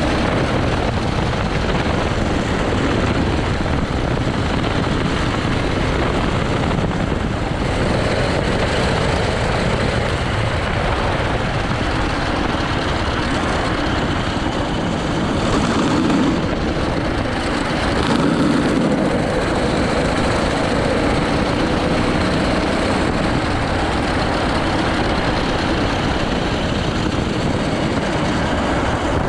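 80cc go-kart engine running hard on a timed lap, a loud steady racket that swells slightly now and then as the throttle changes.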